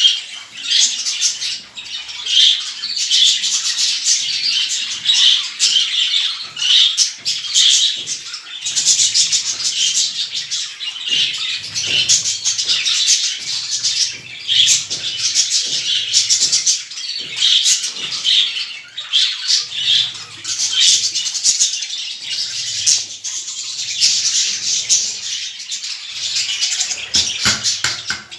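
A flock of small cage birds chirping and chattering continuously, many calls overlapping.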